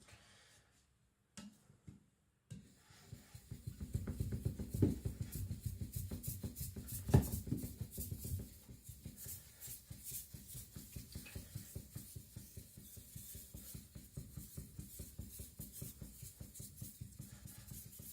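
Steel cleaver blade scrubbed rapidly back and forth, flat on a Naniwa Aotoshi 2K whetstone, starting after a couple of seconds of near silence, with one louder knock about seven seconds in. The blade face is being polished to remove coarse scratches while thinning it.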